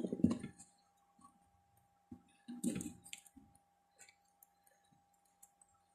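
Faint scattered clicks and handling sounds of soldering work on a charger's circuit board, with a short louder patch of handling noise about halfway through.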